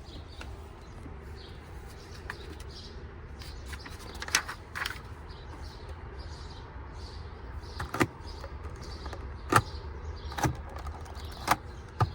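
Scattered sharp clicks and knocks, about seven at irregular intervals, over a low steady hum.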